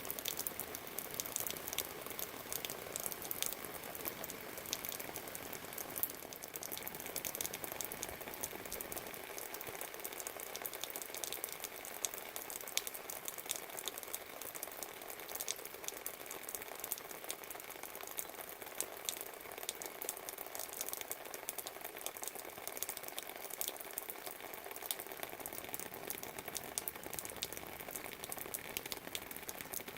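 Steady rain: a dense patter of drops with many sharp individual drip clicks. A faint low rumble sits underneath in the first nine seconds or so, then fades.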